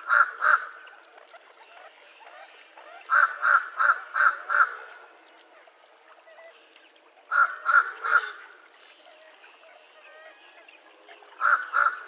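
Fish crow calling: short nasal "car" or "ca" notes in quick runs of three to five, with pauses of a few seconds between runs.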